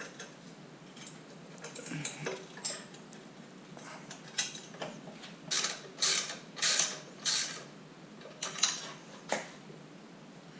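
Hand ratchet wrench clicking in short strokes as the skid plate bolts on a Honda CRF50 pit bike are run in and tightened, with small metal clinks between. The strokes come in a quick run of four about halfway through.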